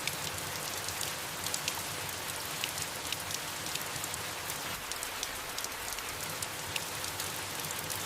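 Steady soft rain falling on leaves: an even hiss with many small, scattered drop ticks.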